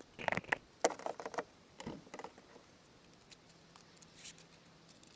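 Plastic clicks and rustling as a car door speaker is handled and fitted into the door panel. A quick cluster of clicks comes in the first second and a half and another about two seconds in, then only a few faint ticks.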